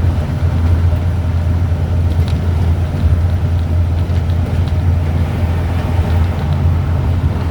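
Steady low rumble of high wind, with a haze of heavy rain and faint scattered ticks over it.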